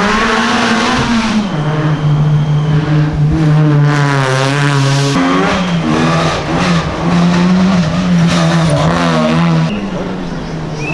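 Rally car engines running hard at high revs on a stage, the pitch holding and shifting slightly, with an abrupt change to another car about five seconds in.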